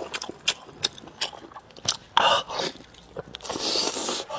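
Close-miked eating: biting and chewing meat off lamb spine bones, with irregular wet mouth smacks and sharp clicks scattered throughout.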